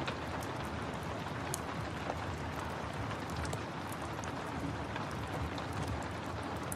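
Steady rain mixed with the scattered sharp pops and crackles of a wood fire.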